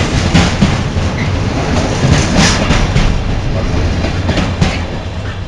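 Container freight train's flat wagons rolling past, wheels clicking over rail joints in a clickety-clack over a steady rumble of running noise. The train gets quieter near the end as the last wagons go by.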